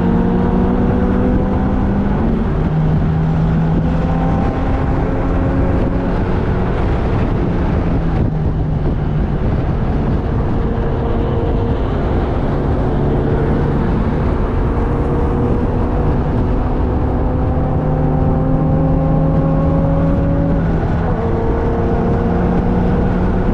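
Car engine heard onboard at track speed, over steady wind and road noise. The engine note climbs slowly and steps down several times as the gears change.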